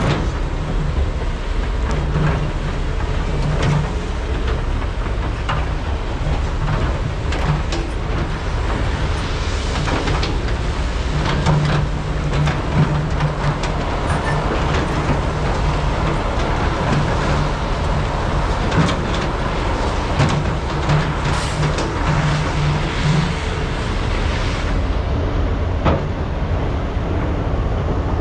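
Komatsu PC395 and SANY SY485H hydraulic excavators' diesel engines running under changing load, the low drone swelling and easing again and again, with frequent clanks and knocks of buckets and rock as trucks are loaded.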